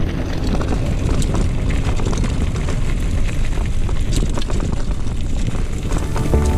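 Mountain bike riding along a bush trail: wind rushing over the microphone and tyre rumble, with scattered clicks and rattles from the bike.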